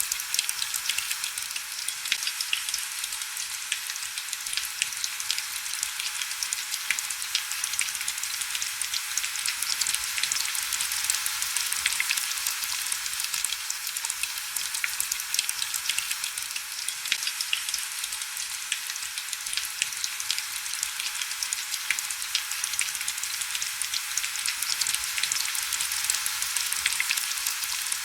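Steady heavy rain: a dense, even hiss of countless fine drop ticks, with almost no low rumble.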